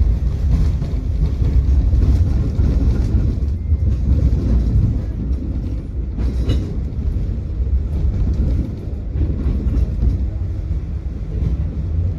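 Tram running on its rails: a steady low rumble, with a few wheel clicks over rail joints.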